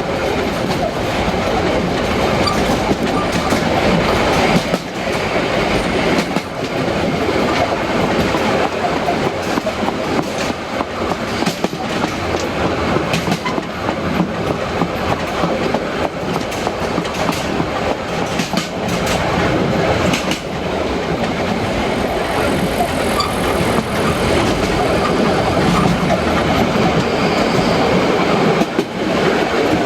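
Narrow-gauge train running along the track: a steady running noise with frequent clicks of the wheels over rail joints.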